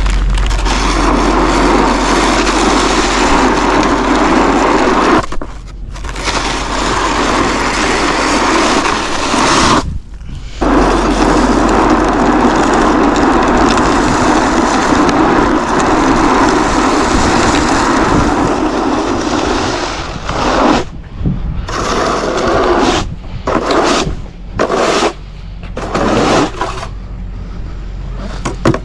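Salt spreader throwing rock salt: a steady gritty hiss over a low hum. It cuts out briefly about five and ten seconds in, then stops and starts several times near the end.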